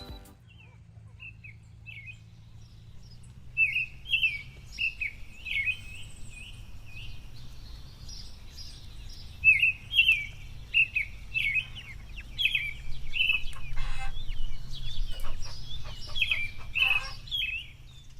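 Small birds chirping in short, quick, repeated calls, sparse at first and then nearly continuous from a few seconds in, over a low steady hum.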